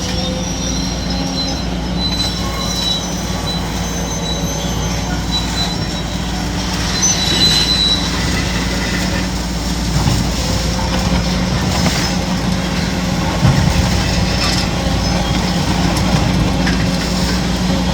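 Kobelco SK850 demolition excavator's diesel engine running steadily under load, with high metallic squeals coming and going and several sharp knocks from the demolition work in the second half.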